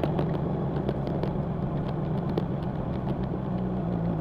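Honda CB1000R's inline-four engine and exhaust running at steady revs, the pitch holding level.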